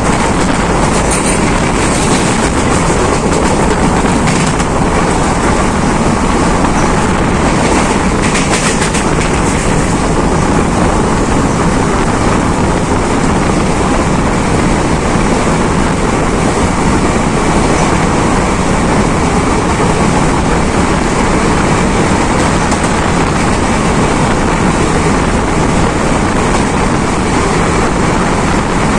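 Passenger train running steadily, heard from an open window of its own coach: a continuous rumble of wheels on the rails and rush of air.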